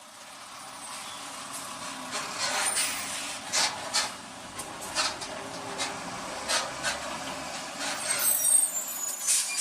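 Vehicle noise: a steady road rumble broken by a dozen or so sharp clicks and knocks, with a high squeal and the loudest knocks about eight to nine seconds in.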